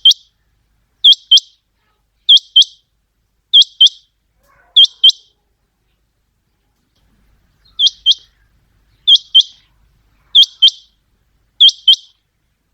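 Common quail calling: a sharp, high, clipped song in quick pairs of notes, repeated about every 1.3 seconds, with a pause of a couple of seconds about halfway through.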